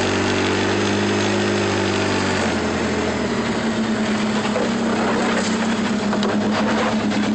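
Vehicle engine running steadily; its note shifts about two seconds in.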